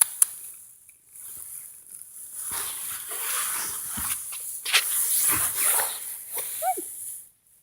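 Rustling, crunching noise with a few sharp clicks, and a short cat meow falling in pitch near the end.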